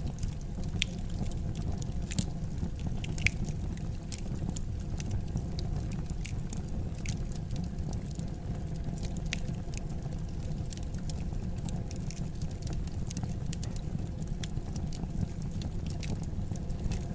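Fireplace fire burning steadily with a low rumble and irregular crackles and pops, one sharper pop about three seconds in.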